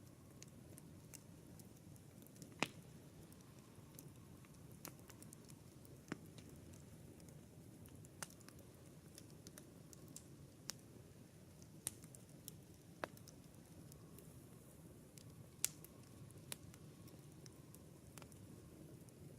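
Campfire crackling: irregular sharp snaps and pops of burning wood over a soft, low hiss, with two louder snaps, one a few seconds in and one about two-thirds of the way through.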